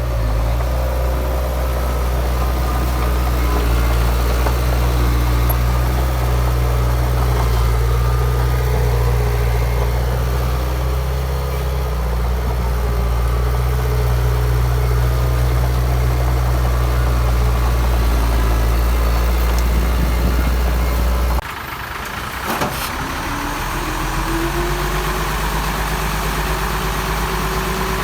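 Heavy diesel engine of earthmoving machinery running steadily with a deep, even hum. About three-quarters of the way through, the deep hum drops off suddenly and a lighter engine sound carries on, with a brief rising whine.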